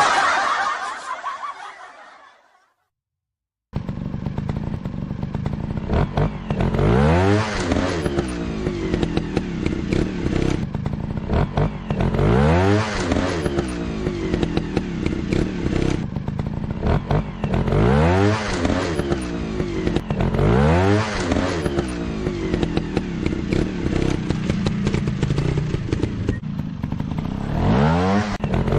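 A sound fading out over the first couple of seconds, a moment of silence, then a motorcycle engine running and revving up again and again, its pitch climbing in a sweep every two to three seconds.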